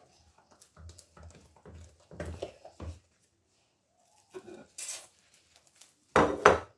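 Dishes and a plastic container being handled on a kitchen counter: a string of light, irregular knocks and scrapes, a brief hiss just before five seconds in, and a louder clatter near the end.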